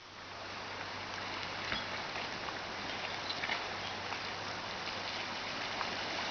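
Steady rush and splash of creek water as a Suzuki XL-7 SUV fords a deep creek crossing, the water deep enough to reach nearly to the engine.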